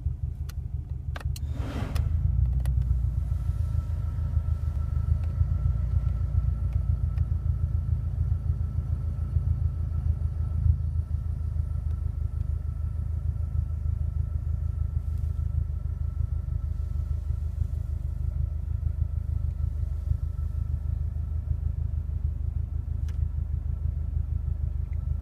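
Car cabin with the engine idling and the air conditioning running: a steady low rumble that gets louder about two seconds in, with a faint bubbling, hissing noise from behind the glove box that comes on with the AC compressor.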